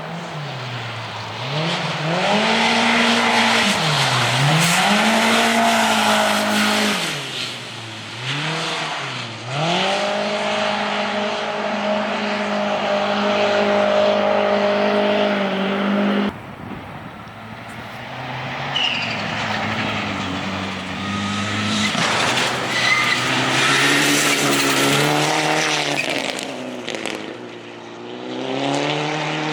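Rally car engines revving hard. The pitch drops and climbs several times as a car lifts and accelerates, then holds high. The sound changes abruptly about halfway through, and near the end a second run builds up again with rising revs.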